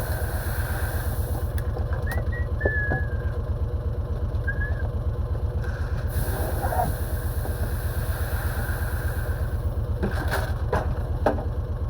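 An engine idling with a steady, evenly pulsing low sound. A few short high squeaks come a couple of seconds in, and several sharp clicks near the end.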